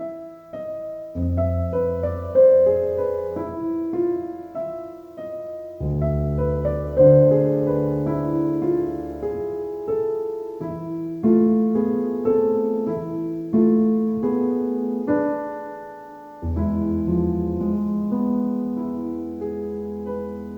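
Calm solo piano music: a slow melody over sustained chords, with deep bass notes struck about a second, six seconds and sixteen seconds in.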